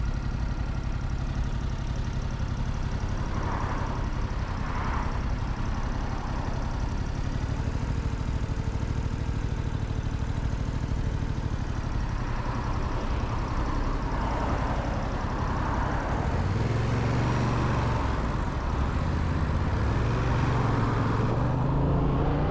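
Motorcycle engine idling with a steady low tone, then pulling away and accelerating with rising pitch, shifting up once before rising again near the end, with city traffic around it.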